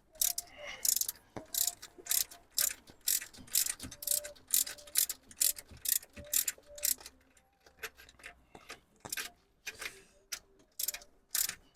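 Hand socket ratchet being worked in strokes on the BMW N13 engine, clicking about twice a second, with a short pause past the middle.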